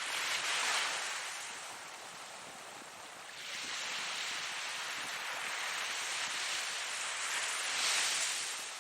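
Ocean waves breaking, a steady wash of surf that swells twice: one wave crashes about a second in, and the next builds for several seconds to break near the end.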